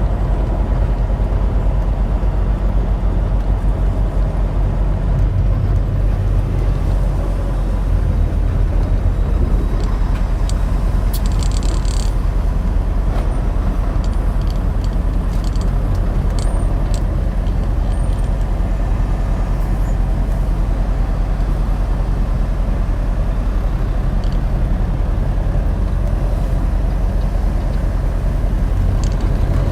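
Semi truck's diesel engine running with a steady low rumble of engine and road noise, with a short hiss about eleven seconds in.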